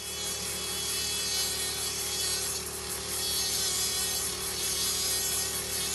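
Podology nail drill running steadily with its spray, the bur grinding down a thickened, fungus-damaged toenail to thin it. The sound is a continuous grinding hiss over a steady motor tone.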